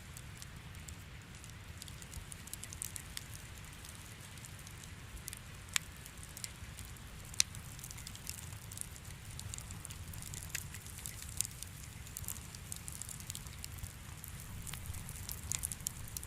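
Wood fire crackling in a fireplace: a steady low rumble with scattered sharp pops and snaps, two of them louder in the middle.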